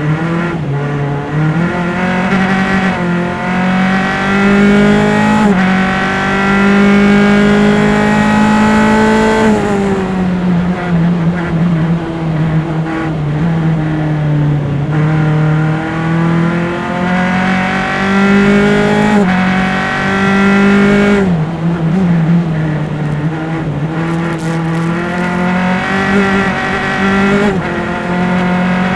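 Onboard sound of a single-seater formula race car's engine under full throttle at racing speed. The pitch climbs through several quick upshifts, falls sharply about nine seconds in as the driver lifts and brakes for a corner, then climbs again. The same drop and climb comes again near the end.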